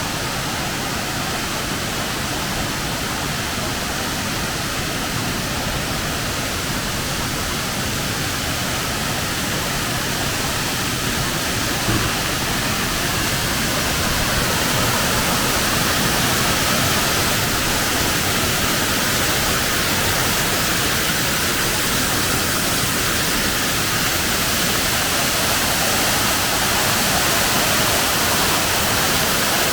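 Waterfall: a steady rush of falling water that grows a little louder about halfway through.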